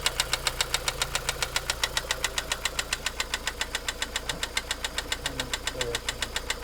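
Opel Vectra B engine running at a steady idle with a sharp, regular knock from inside the engine, about five or six knocks a second, evenly spaced. The cause is unknown to the owner.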